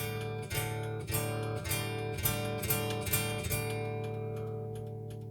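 Guitar chord strummed about twice a second, then left to ring and fade for the last second and a half, played through a Peavey UltraVerb effects processor. Only the dry guitar comes through, with no effect added: the unit is faulty in patch mode.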